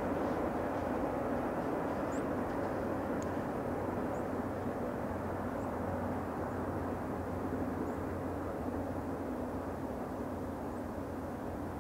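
Distant rumble of a BNSF intermodal freight train led by a GE C44-9W diesel locomotive, a steady low drone that eases slightly in level.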